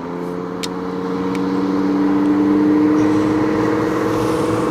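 A car's engine pulling hard on the sprint course, holding a near-steady high pitch that creeps up slightly, growing louder over the first couple of seconds and then holding.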